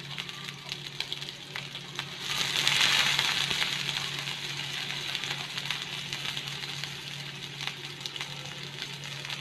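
Sliced onion and green capsicum sizzling in hot oil in a frying pan, stirred with a spatula that clicks and scrapes against the pan. The sizzle swells about two seconds in, then settles to a steady hiss.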